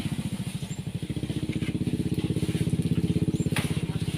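A small engine running steadily nearby, with a rapid, even low beat.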